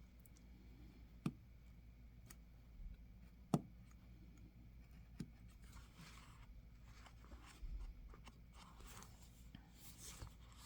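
Quiet cutting and handling of a thin plastic planner cover: faint scraping and rustling, with two sharp little clicks, about a second in and again after about three and a half seconds.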